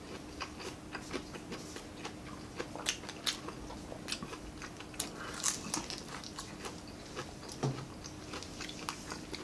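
Close-miked eating of crispy deep-fried chicken neck: a string of irregular crunches and wet mouth clicks as it is bitten and chewed. A faint steady hum runs underneath.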